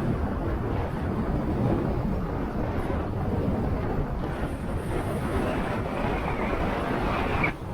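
Motorcycle on the move: a steady rumble of wind rushing over the microphone mixed with engine and road noise.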